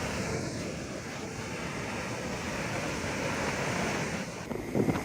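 Floodwater of a swollen river rushing steadily. Near the end the sound changes abruptly and louder, gusty noise comes in, like wind on the microphone.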